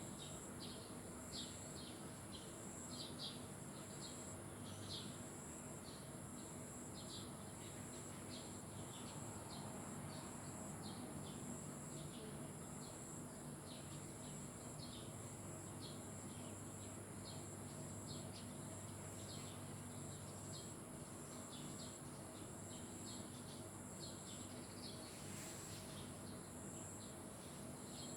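Small birds chirping, with many short chirps repeated unevenly, over a steady high insect drone such as crickets. Faint throughout.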